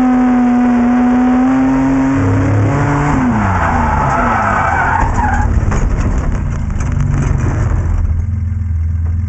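BMW E30 drift car's engine held high in the revs for about three seconds, then dropping away as the tyres squeal and skid through the slide. Near the end the engine falls back to a lower, quieter running.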